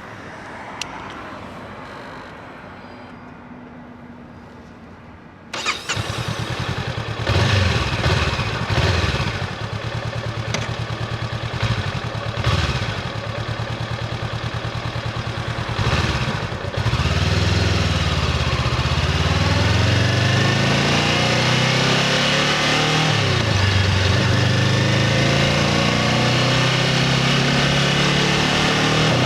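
Honda CBR500R's 471 cc parallel-twin engine through its stock exhaust: it starts suddenly about five seconds in, idles with a few short throttle blips, then from about halfway runs louder and steadily, its pitch rising and falling with engine speed.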